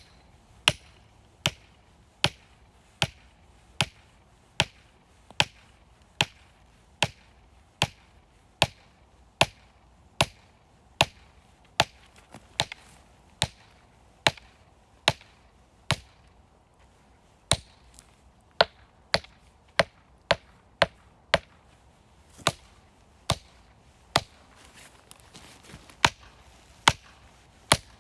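Firewood being chopped by hand: a long run of sharp, evenly paced strikes, about one every 0.8 seconds, with a couple of brief pauses.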